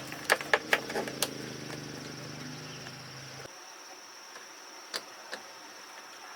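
A quick run of about five sharp knocks over a low steady hum that cuts off abruptly after about three and a half seconds, then two fainter knocks. A steady high-pitched insect drone runs underneath.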